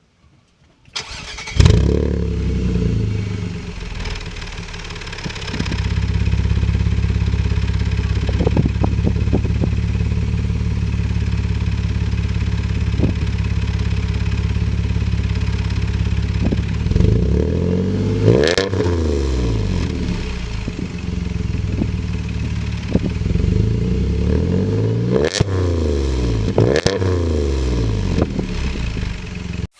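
Engine exhaust: the engine starts about a second and a half in, then idles steadily. It is revved in three short throttle blips in the second half, the pitch rising and falling each time.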